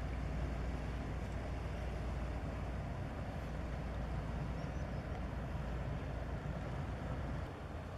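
Low, steady rumble of an inland motor cargo ship's diesel engine, easing a little near the end.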